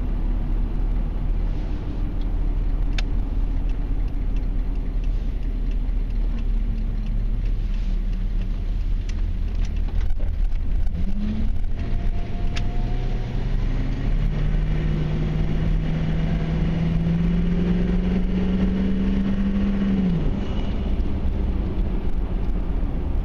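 A 1994 Chevy Silverado K1500's 6.5-litre turbo-diesel V8 runs as the truck drives along the road, with a steady low rumble. About halfway through, the engine note climbs steadily for some nine seconds under acceleration, then drops off sharply.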